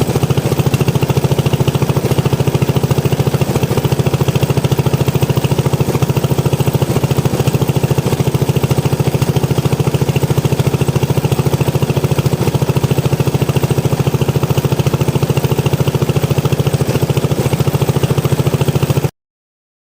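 Bernard Moteurs W14 15 hp engine running steadily at an even speed, with a rapid, regular beat; the sound cuts off suddenly near the end.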